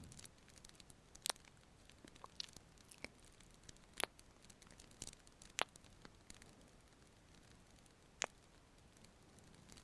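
Faint fireplace crackle: a low steady hiss with sharp, irregular pops and snaps from the burning wood, about seven in all.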